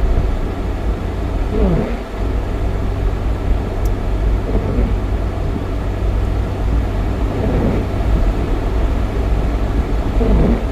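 Car driving on a highway: a steady low road and engine rumble, with a short sweeping sound that repeats about every three seconds.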